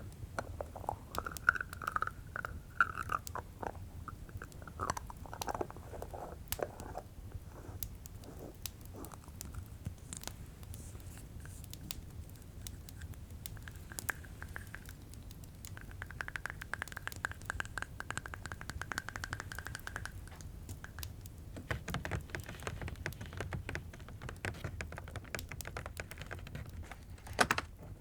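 Lid of a jar being twisted and scraped for ASMR, with two longer stretches of a steady whining tone as it turns, over a steady crackling fireplace.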